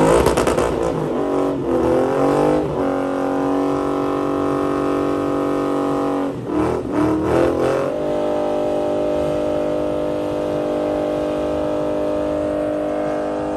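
Ford Mustang's engine revving up and held at high revs during a burnout. About six to eight seconds in the revs drop and flutter briefly, then hold steady again.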